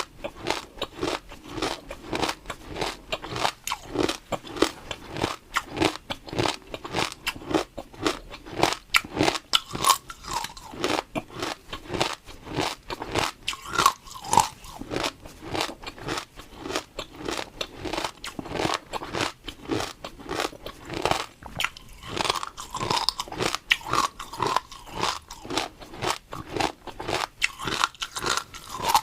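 Close-miked crunching and chewing of food, a fast, even run of crisp crunches several times a second.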